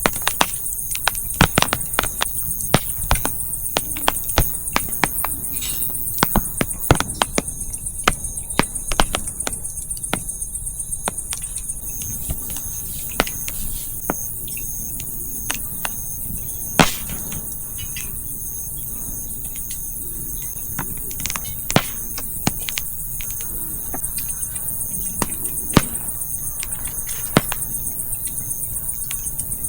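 Wood campfire crackling, with irregular sharp pops from the burning firewood and one louder snap near the middle. Insects chirr steadily in a high pitch behind it.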